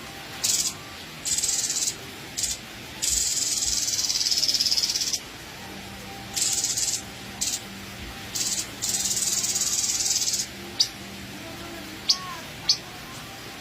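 Grey-headed babbler giving harsh, hissing churrs in bursts of half a second to about two seconds, with a few sharp, short high notes near the end.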